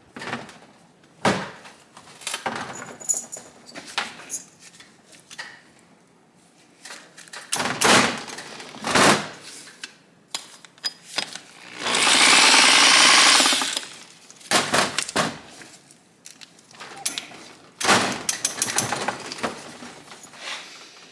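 Metal clicks and clunks from the gear-shift mechanism of a 1971 Honda SL125 engine as it is worked by hand, the shift feeling jammed. A loud, dense rattling burst lasts about two seconds, about twelve seconds in.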